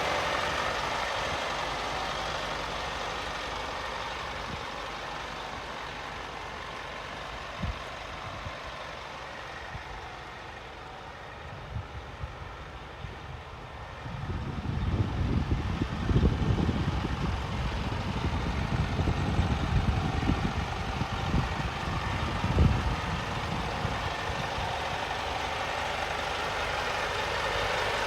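Scania P230 truck's diesel engine idling, with a stretch of irregular low rumbling through the middle.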